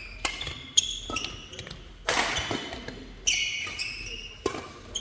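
Badminton doubles rally: sharp racket strikes on the shuttlecock, the loudest about two seconds in and another near the end, with shoes squeaking on the court floor, echoing in a large hall.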